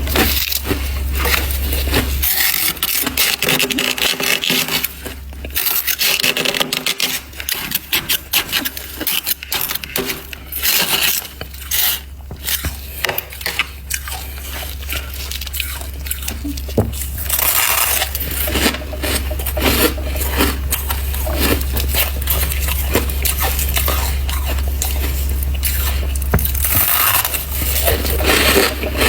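Freezer frost being bitten and chewed close to the microphone: a dense, irregular run of crisp crunches and crackles, with scraping sounds between them. A steady low hum runs underneath, dropping out for a few seconds near the start.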